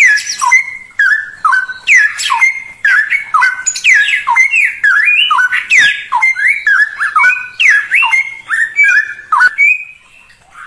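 Caged songbird singing a fast, continuous run of loud whistled notes, many of them sliding down in pitch, several a second; the song stops shortly before the end.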